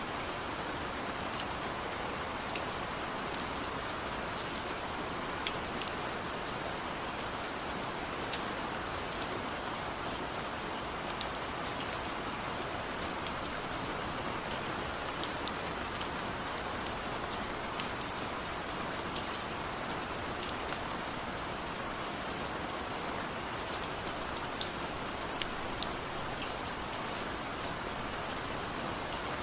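Steady rain falling, an even hiss with scattered sharp drips and drop ticks landing on nearby surfaces.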